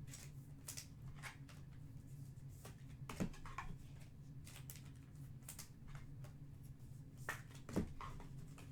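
Faint clicks and rustles of trading-card packs and cards being handled, with two louder knocks about three and eight seconds in, over a steady low hum.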